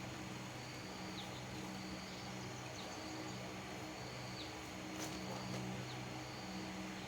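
A repeated high call: a held note ending in a quick downward flick, about every one and a half seconds, over a low hum.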